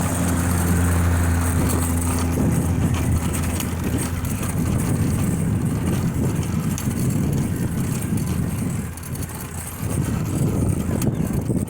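A motor vehicle's engine running nearby: a steady low hum for the first couple of seconds, then a lower, rougher rumble.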